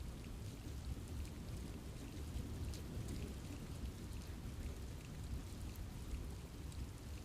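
Steady rain falling in a forest, with a continuous low rumble of the downpour and many small, scattered drop ticks on leaves.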